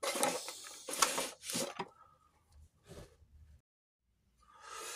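Handling noise of small parts on a workbench: irregular rustling and light clicks, mostly in the first two seconds, then quiet, with a soft hiss near the end.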